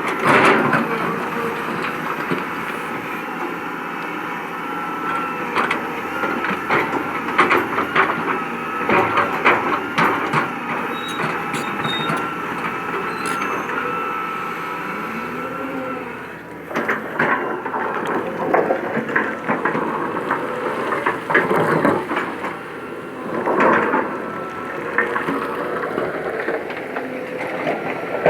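Heavy earthmoving machine working: a steady engine under load with a thin whine over it, and frequent clanks and knocks of metal on rock. The noise drops briefly about sixteen seconds in, then picks up again.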